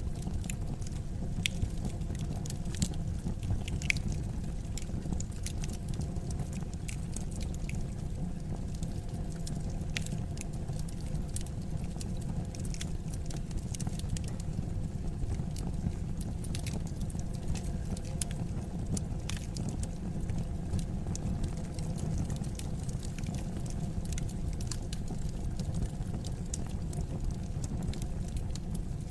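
Wood fire crackling in a fireplace: frequent short, irregular pops and snaps over a steady low rumble of burning.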